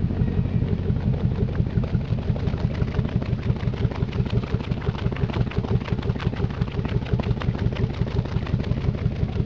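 Wakecraft ZR 6 boat's inboard engine idling through its side exhaust with stainless free-flowing silencers: a steady, even pulsing that holds at one speed.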